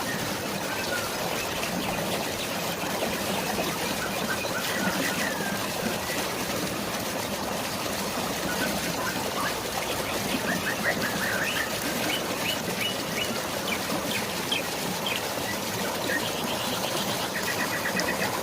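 Steady hiss of rain and rushing water, with songbirds chirping over it: scattered short chirps, and runs of quick trills in the second half.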